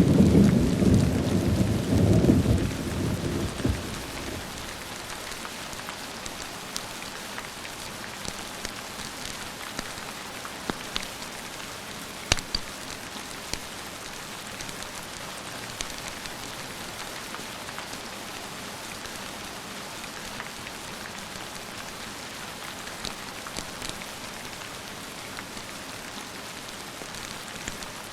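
Steady rain with a rumble of thunder dying away over the first few seconds, leaving an even rain hiss broken by scattered sharp ticks and pops.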